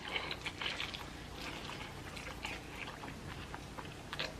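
Faint, scattered small clicks and rustles of someone beginning to eat a bowl of instant ramen noodles, picked up on a close microphone.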